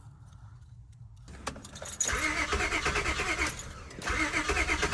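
Honda Accord's starter cranking the engine over in two bursts of about a second and a half each, with an even pulsing rhythm. The engine doesn't catch: a crank-no-start.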